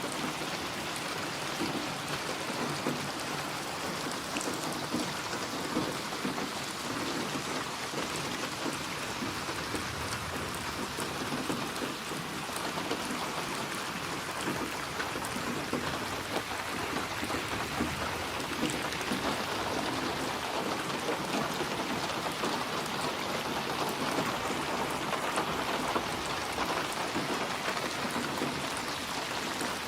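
Steady rain falling on a surface: a dense, even patter with scattered sharper drop ticks.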